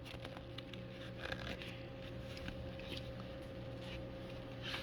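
Faint rustling and small clicks of handling noise over a steady electrical hum.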